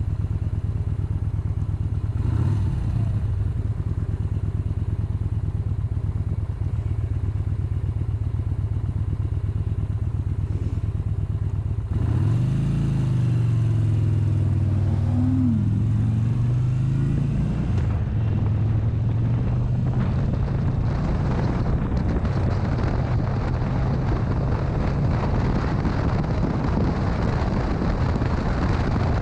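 Motorcycle engine running steadily while riding; about twelve seconds in it gets louder and its note swings down and back up over several seconds as the rider works the throttle. In the second half a rushing noise builds, typical of wind on a helmet or bike camera as speed rises.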